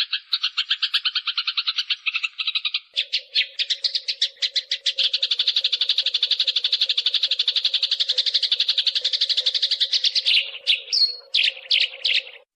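Eurasian tree sparrows fighting: a fast, rapid-fire chatter of chirps, about ten a second, that breaks into a few separate chirps near the end and cuts off suddenly. A faint steady hum runs underneath.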